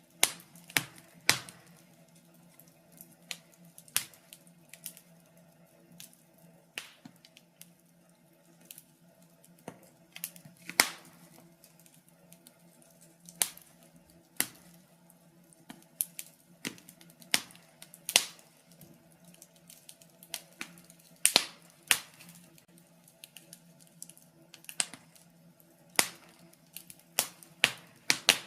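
Wood fire crackling: irregular sharp pops and snaps, from a few seconds apart to several in quick succession, over a faint steady low hum.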